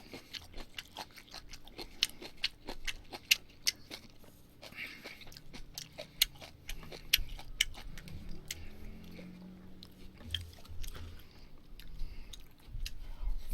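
Close-miked chewing of grilled pork belly and duck, with wet, irregular mouth clicks and smacks several times a second.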